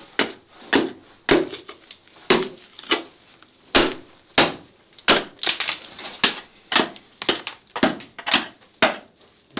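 A hand tool striking rock over and over, chipping at freshly blasted rock to free material: sharp blows a little under two a second, steady throughout.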